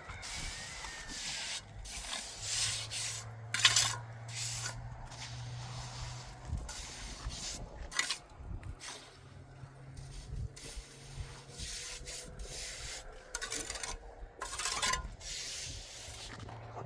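Irregular rubbing and scraping strokes on a hard surface, some short and sharp, with the loudest coming just before four seconds in.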